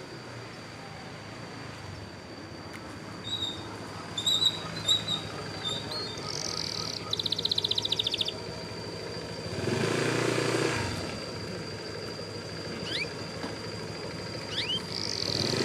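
Domestic yellow canary singing: short high chirps followed by fast rattling trills of evenly repeated notes, twice. About ten seconds in, a louder rushing noise with a low hum rises and fades.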